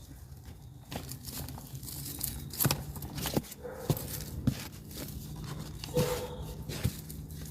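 Hands rustling and crunching dry peat moss and pine bark mulch in a plastic storage tote, with irregular crackles and scrapes.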